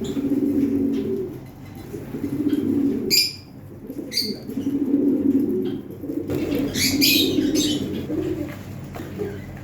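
Pigeons cooing in a string of low phrases of about a second each. Short high bird chirps cut in about three seconds in and again a second later, with a longer spell of chirping a little after the middle.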